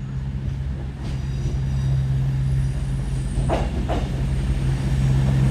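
CrossCountry diesel passenger train pulling into the station: a steady low engine drone growing louder as it approaches, with short wheel squeals about three and a half seconds in.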